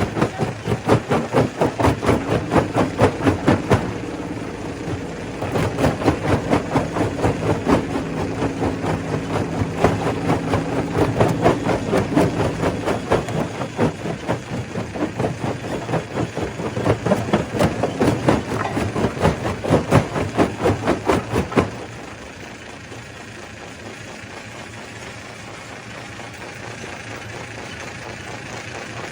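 Stone crusher machine running with a rapid, rhythmic knocking of about three strikes a second over a steady engine hum. About 22 seconds in the knocking stops and only a quieter, steady mechanical hum remains.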